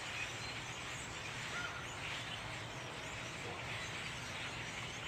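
A large flock of birds calling from trees: many faint, overlapping chirps and chatter, over a steady low background rumble.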